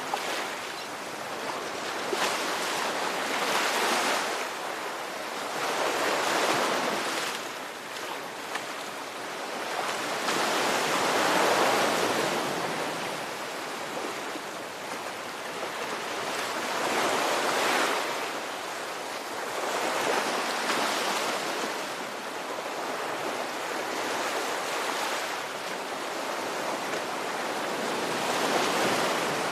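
Ocean surf: waves breaking and washing in, a continuous rushing hiss that swells and eases every few seconds.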